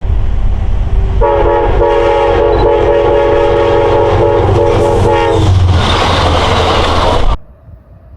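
Train horn sounding a chord in several blasts over a heavy low rumble, followed by the rushing noise of the train going by. The sound cuts off abruptly near the end.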